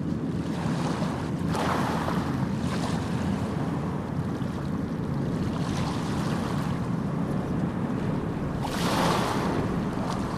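Sea waves breaking and washing onto a sandy beach over a steady low rumble of surf, with swells of splashing about a second and a half in, again midway, and loudest near the end.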